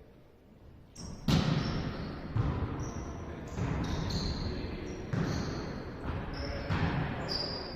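Volleyball being struck again and again during play, a sharp hit about every one to one and a half seconds after a quiet first second, with short high squeaks of shoes on the court floor between the hits, echoing in the hall.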